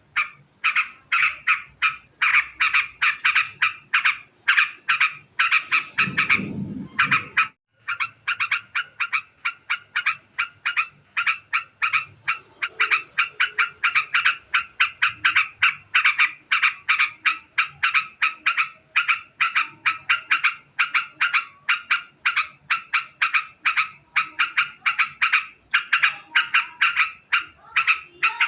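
Yellow-vented bulbul (trucukan) giving a long, very fast chattering 'ngekek' call: notes repeated rapidly and evenly, on and on with barely a break. A brief low rumble sounds about six seconds in, and the sound drops out for an instant just after.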